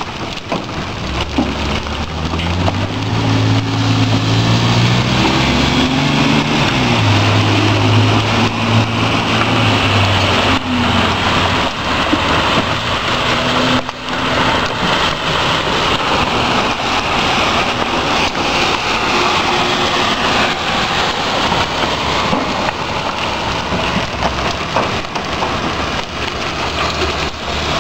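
Heavy rain and hail pounding down in a thunderstorm: a dense, loud hiss with occasional sharp knocks. Underneath is a low droning tone that steps up and down in pitch for several seconds near the start and returns more faintly later on.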